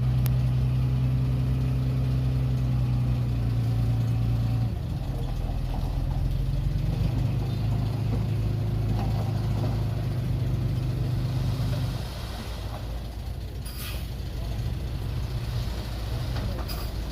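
Dump truck's diesel engine running steadily. Its tone shifts about five seconds in and it drops quieter about twelve seconds in, with a couple of short hisses near the end.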